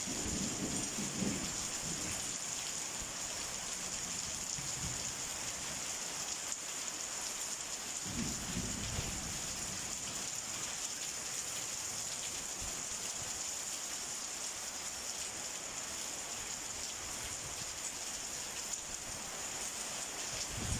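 Steady heavy rain of a summer storm, an even hiss throughout, with two brief low rumbles, one near the start and one about eight seconds in.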